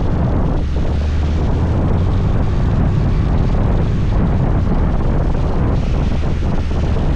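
Wind noise on the microphone of a moving scooter, loud and steady, over the low, even hum of the scooter's engine running.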